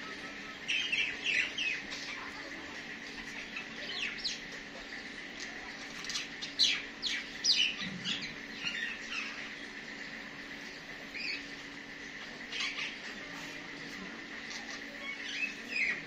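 Small birds chirping: clusters of quick, high, downward-sweeping notes every few seconds, loudest a little before the middle.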